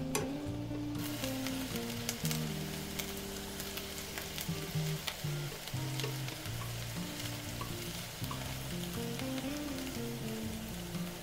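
Japanese leek and minced garlic sizzling in a nonstick frying pan on medium heat, growing fuller about a second in, with light clicks of wooden chopsticks stirring against the pan. Soft background music plays underneath.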